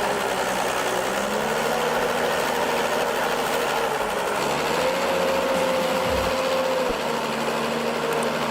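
Heavy machine's engine running steadily, with a higher whine that holds for about two seconds around the middle.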